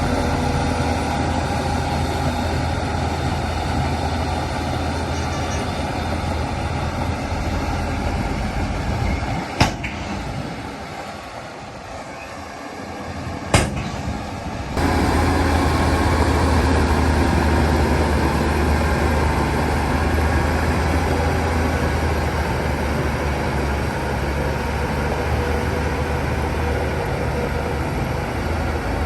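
Heavy diesel earthmoving machinery running steadily with a deep hum. Two sharp knocks come about ten and fourteen seconds in, and the engine sound drops lower between them before coming back abruptly.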